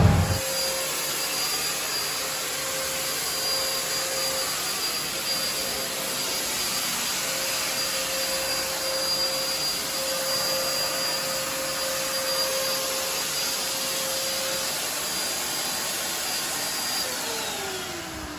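Vacuum-type motor running steadily with a thin whine over its rushing noise, then winding down in pitch near the end.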